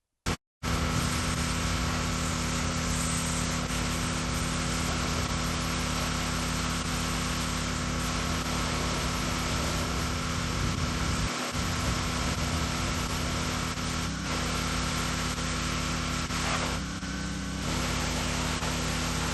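Small-engine pressure washer running steadily, the spray hissing over the engine's drone; it starts abruptly just under a second in and dips briefly near the end.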